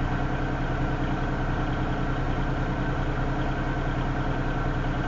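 Diesel locomotive engine idling steadily, a low even hum with a regular pulse, while the train stands still.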